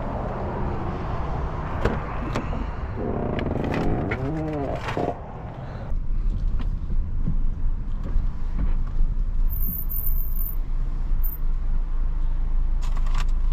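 Outdoor traffic and wind noise with a brief pitched sound, then a car engine idling with a steady low hum heard from inside the cabin. Scattered clicks and rustles come near the end.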